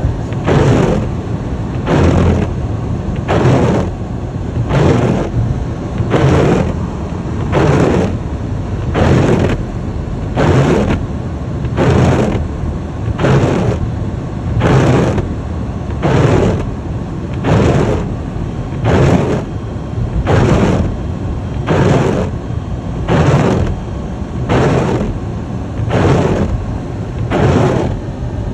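Car windshield wipers sweeping back and forth, a swish a little faster than once a second, over the steady low rumble of the car driving in a snowstorm.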